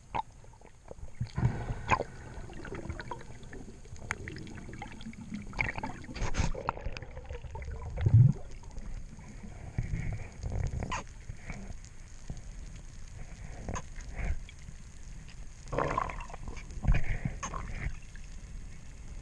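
Water gurgling and sloshing, broken by irregular knocks and splashes.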